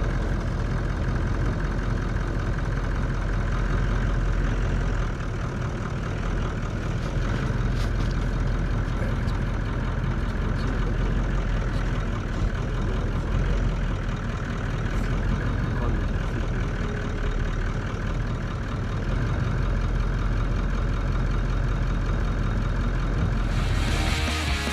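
Vehicle engine running steadily, with a deep low hum and no break. Rock music with guitar cuts in near the end.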